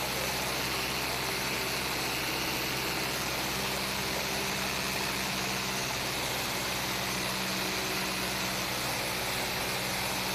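Light single-engine plane's piston engine and propeller running at a steady drone, heard inside the cockpit over the hiss of rushing air.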